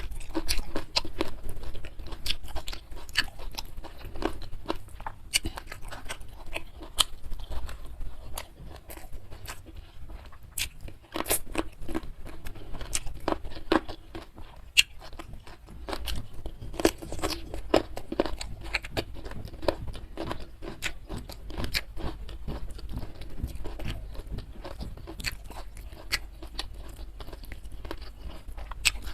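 Close-miked chewing and biting of food, with frequent crisp crunches and wet clicks in an irregular stream.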